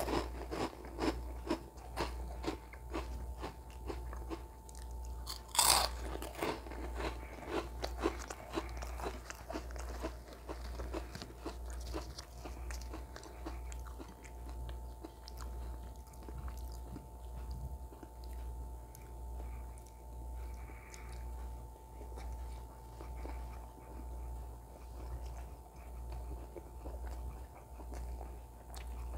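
Close-miked chewing and crunching, with a loud crunch of crispy fryums about six seconds in. It settles into softer chewing of naan dipped in mutton kofta curry.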